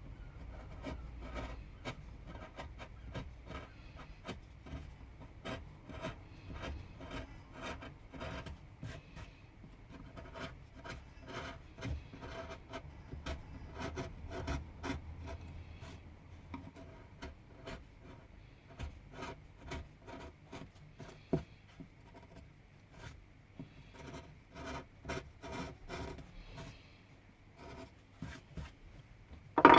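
Hand carving tool cutting and scraping into pine wood in a steady run of short strokes. A single sharp knock near the end.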